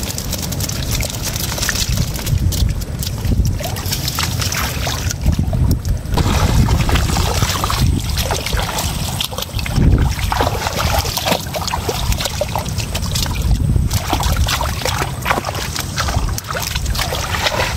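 Water splashing and sloshing with irregular knocks and clicks, under a heavy rumble of wind buffeting the microphone.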